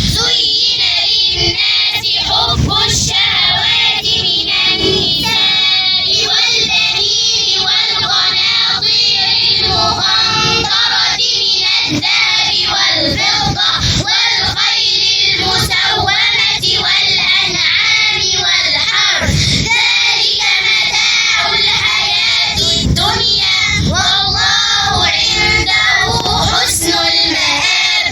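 Young girls' voices chanting Quranic recitation in a melodic, sung style.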